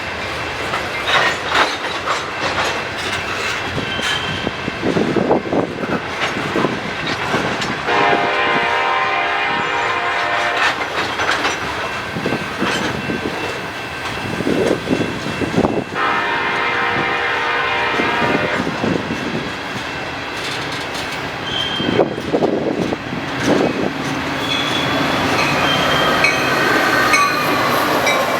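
A train passing and sounding its air horn in two long blasts of about three seconds each, with wheels clattering over the rail joints throughout.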